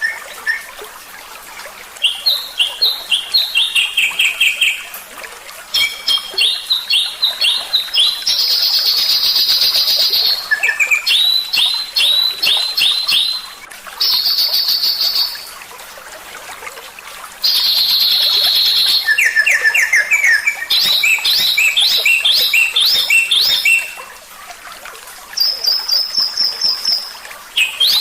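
Songbird singing a varied song of quick runs of repeated chirps and high rapid trills, in phrases a few seconds long with short pauses between them. This is masteran song, played to teach cage songbirds.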